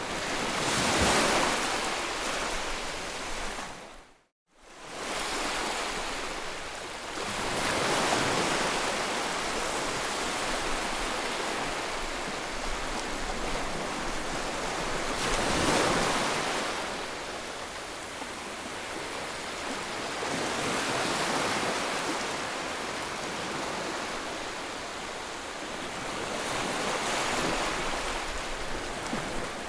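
Ocean surf washing in, swelling and easing every several seconds as waves break. About four seconds in, the sound drops to near silence for a moment, then fades back in.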